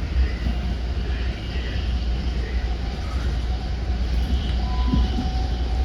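Commuter train in motion, heard from inside the passenger coach: a steady low rumble of wheels on the track, with faint voices in the background.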